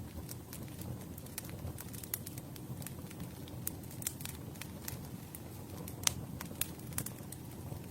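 Campfire burning: wood crackling with frequent irregular sharp pops over a steady low rumble of the flames, with the loudest pop about six seconds in.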